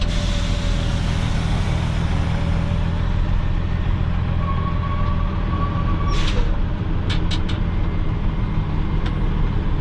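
Loaded truck's diesel engine running steadily, heard from the cab, with a hiss of air at the start that fades over a few seconds as the air-lowered pusher axles are dropped. A short second burst of air comes about six seconds in, followed by a few sharp clicks.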